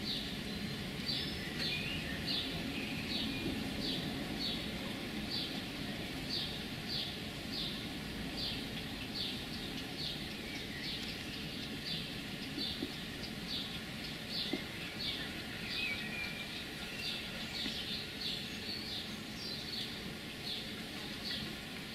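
A small bird calling: one short high note repeated about twice a second, over a steady low background rumble.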